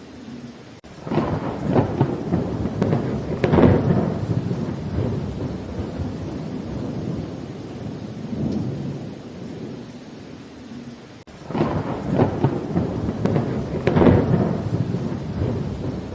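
Steady rain with two rolls of thunder, the first starting about a second in and the second near the end, each swelling to a loud rumble and fading away.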